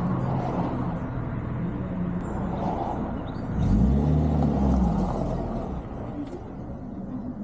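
Renault 8's engine running with the car under way; about three and a half seconds in the revs rise and fall again as it accelerates and eases off, then the sound gradually drops away.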